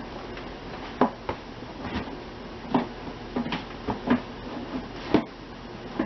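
Irregular sharp knocks and clicks of a hard plastic snap-top battery box being handled, about nine in all, the loudest about a second in and near the end.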